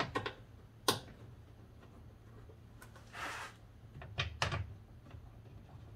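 A few sharp clicks and knocks of socket tools and small metal hardware being handled: several near the start, a crisp one about a second in, and a pair a little past four seconds. About three seconds in there is a short scraping rustle.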